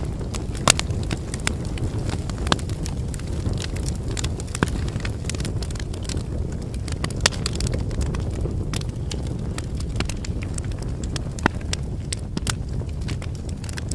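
Wood fire burning: a steady low rush of flames with frequent, irregular crackles and snaps from the burning firewood, a handful of louder pops standing out.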